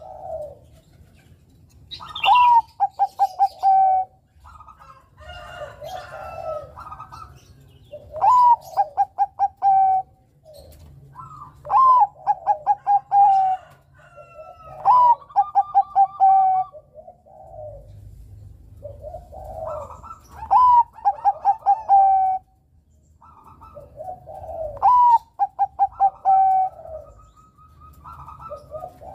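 Zebra dove (perkutut, Bangkok strain) cooing its song, about six phrases in turn, each a rising note, then a quick stuttering run and a held note. Softer, lower coos come between the phrases.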